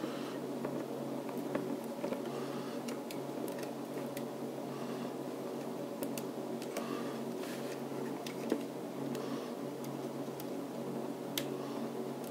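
Scattered light clicks and soft rustling of computer parts being handled on the motherboard, over a steady low hum.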